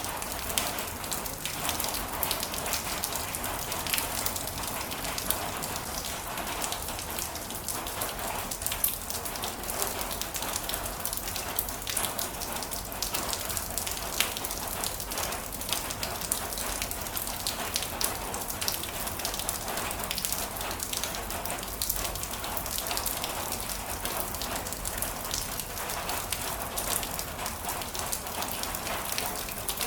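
Heavy rain falling steadily, with many individual drops pattering sharply and now and then a louder single drop hit.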